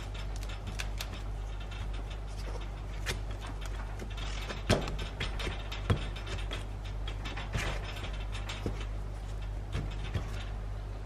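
Scattered clicks and knocks of hand work on the car's bodywork, with a few louder taps, over a steady low hum.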